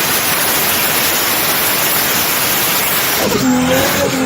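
Loud, steady rushing noise with no pitch. About three seconds in, a car's high, wavering tone cuts in over it.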